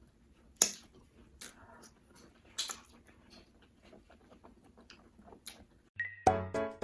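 Close-up wet mouth smacks and chewing of fufu with slimy ogbono and egusi soup, a few sharp separate smacks with quieter ones between. Near the end a chiming jingle of bright ringing notes begins.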